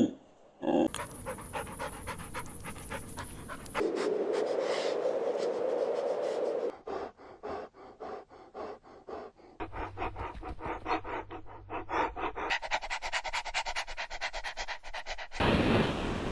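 Small-breed puppies panting quickly and evenly, in a series of short clips that change abruptly every few seconds.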